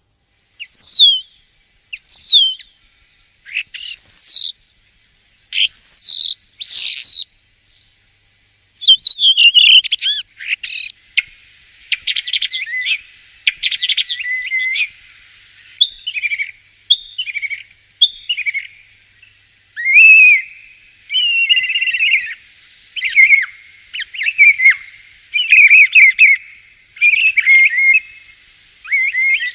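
Common starling singing: several separate whistles sliding down in pitch at first, then a long, varied run of chattering, clicks and warbling phrases.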